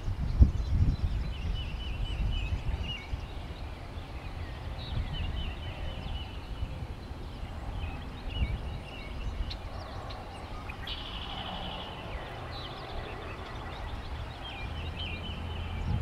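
Birds calling in short runs of rapid chattering notes, repeated several times, over a low rumble that is strongest about half a second in.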